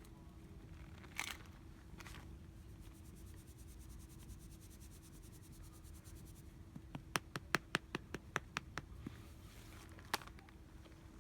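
Faint steady hum, then a quick run of about a dozen sharp clicks or taps at roughly five or six a second, with one more click near the end.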